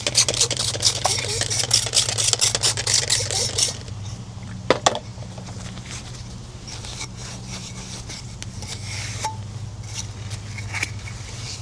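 Rapid, rhythmic scrubbing strokes for the first few seconds, then two sharp knocks and quieter handling sounds over a steady low hum.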